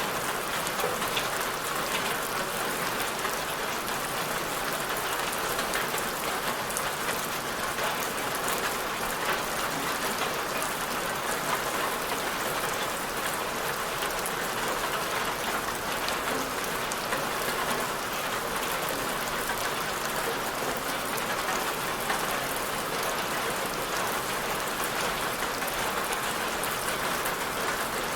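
Steady rain falling, a constant hiss with fine patter of drops.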